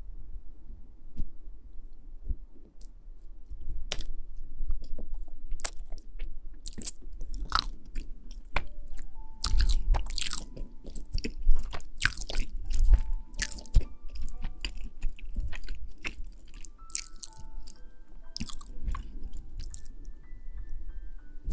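Close-miked chewing and crunching of food, with irregular crisp bites and mouth sounds. From about nine seconds in, a simple melody of short single notes plays along with it.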